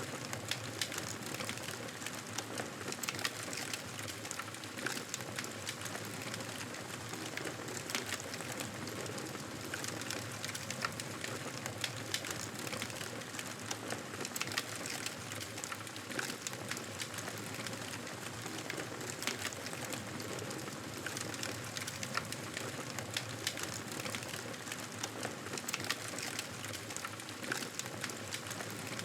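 Wood fire burning in a fireplace: a steady hiss with many small, irregular crackles and pops.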